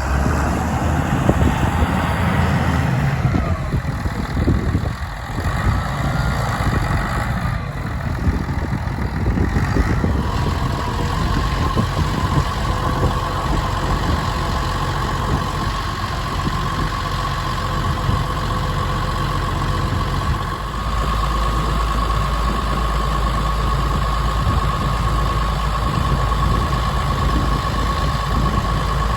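Massey Ferguson 6465 tractor's diesel engine idling steadily. A steady high whine joins about ten seconds in, and the low engine hum grows heavier about twenty seconds in.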